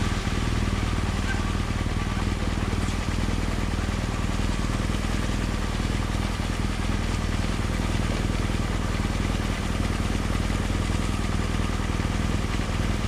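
Motorcycle engine running steadily at low road speed, heard close up from on the bike.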